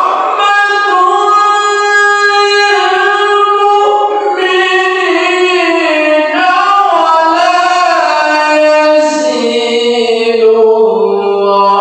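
A qari reciting the Quran in the melodic tilawah style: one voice holding long, ornamented notes that slide slowly in pitch, sinking lower near the end.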